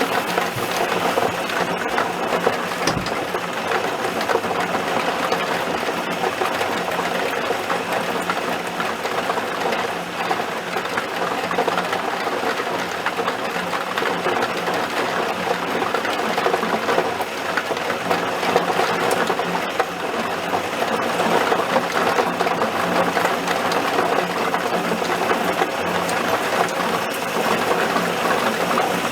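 Heavy thunderstorm rain pattering steadily, a dense unbroken rush of drops with a faint low hum beneath.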